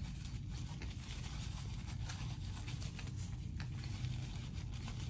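Close-miked mouth chewing and a paper napkin being rubbed over the fingers, heard as scattered soft clicks and rustles over a steady low hum.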